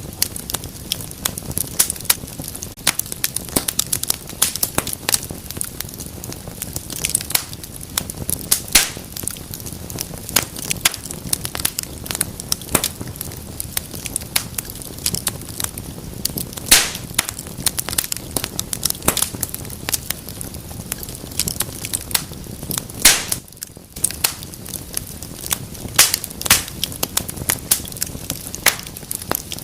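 Wood fire burning in a fireplace: frequent sharp crackles and pops of different loudness over a steady low rush of flames, with a moment of quieter crackling about three-quarters of the way through.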